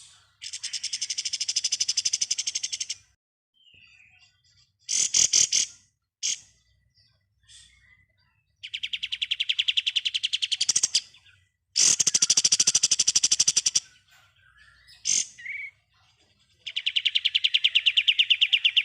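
Kapas tembak songbird singing its 'ngebren' song: four long rattling trills of very fast, evenly spaced notes, each lasting two to three seconds, with a few short sharp calls between them.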